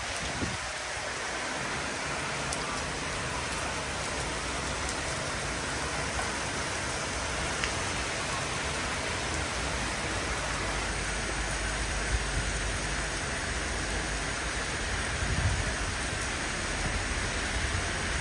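Heavy rain falling steadily, splashing on a balcony ledge and a wet street below. A low rumble comes in underneath about halfway through.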